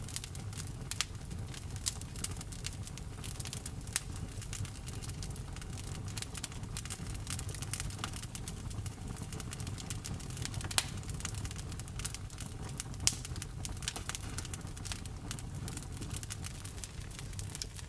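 Wood fire crackling, with irregular sharp pops over a steady low rumble. The loudest pops come about two-thirds of the way in.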